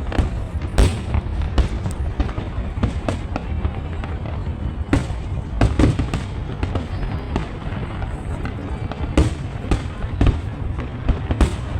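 Fireworks exploding: many sharp bangs at irregular intervals, a few louder than the rest, over a continuous low rumble.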